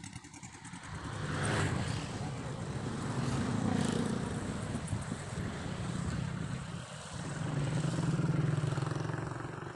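Motor vehicles passing close by, their engines swelling and fading twice: once about two seconds in and again near the end.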